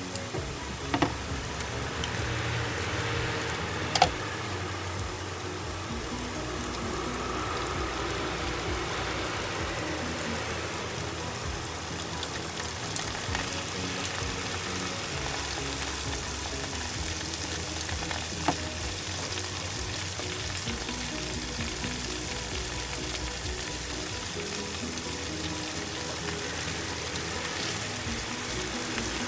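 Chicken strips coated in cornstarch deep-frying in hot oil in a wok, a steady sizzle, with a few sharp clicks about one and four seconds in and again midway.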